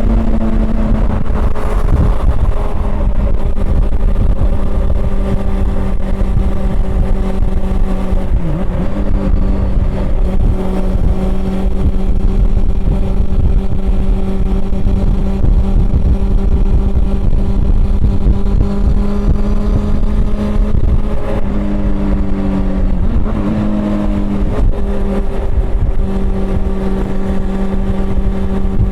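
Honda CB400 Super Four's inline-four engine running under way at steady revs, over heavy wind and road rumble. The engine note dips briefly about a third of the way in. A little past three-quarters of the way through it rises, then drops back quickly and settles.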